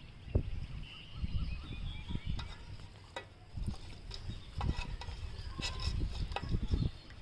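Food being mixed in a bowl, with irregular soft knocks and short clicks.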